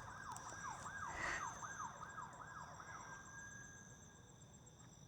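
Faint siren in a fast yelp pattern, warbling up and down about three times a second. It settles into a held tone and stops about three and a half seconds in, while crickets chirp steadily.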